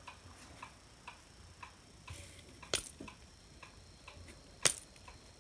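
Faint, regular ticking about twice a second, with two sharper clicks about three and five seconds in.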